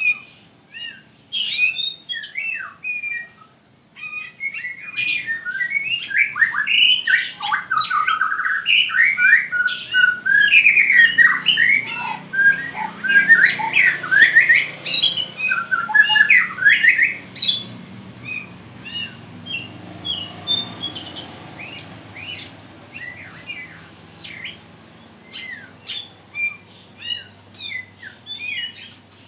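A pet bird calling in a long run of short, quick notes that slide up and down in pitch. The notes come thickest in the middle and thin out toward the end.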